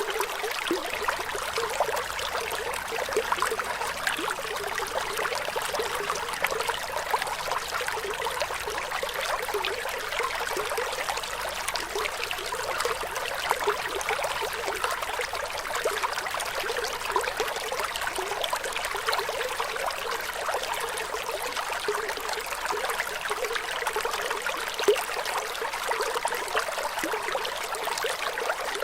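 Flowing water trickling steadily, with a constant patter of small splashes. The sound is light, with little bass.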